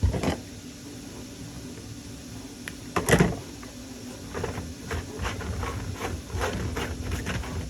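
Workbench handling noises while working with hookup wire: a sharp click at the start, a louder knock about three seconds in, then a string of small clicks and rustles. A steady low hum runs underneath.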